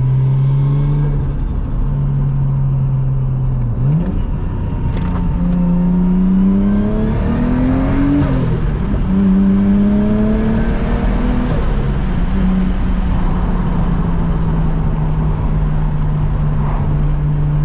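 Nissan Skyline R33 GTS-t's turbocharged 2.5-litre straight-six (RB25DET), heard from inside the cabin through a mild steel X-Force exhaust with a centre muffler. The revs climb and fall back several times, as at gear changes, about four, eight and twelve seconds in, then settle into a steady cruise.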